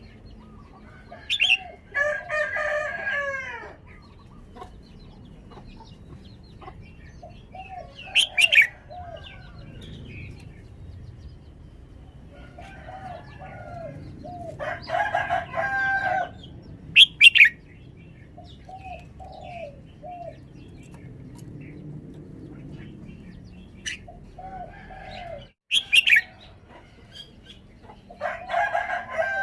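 Red-whiskered bulbul calling in short, loud, sharp whistled phrases about four times, with a rooster crowing three times, about two seconds each, and scattered shorter bird notes.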